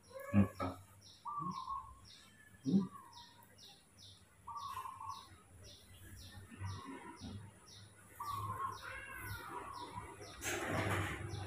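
Birds chirping: a short high note repeated steadily about two to three times a second, with a few lower calls in between. Two knocks come in the first three seconds, and music swells in near the end.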